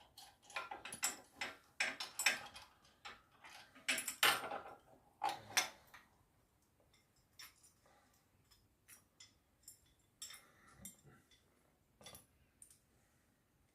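Loose nuts, bolts and spanners clinking and rattling as they are handled and set down: a busy run of metal clinks for about six seconds, then only a few scattered ones.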